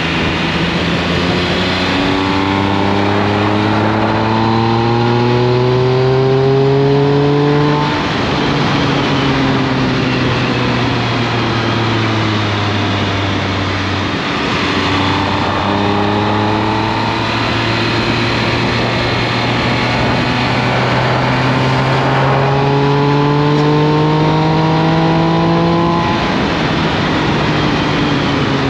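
Triumph Speed Triple 1200 RS's inline three-cylinder engine pulling under acceleration. Its note climbs for several seconds, eases off about eight seconds in and holds, then climbs again through most of the rest, over steady wind rush.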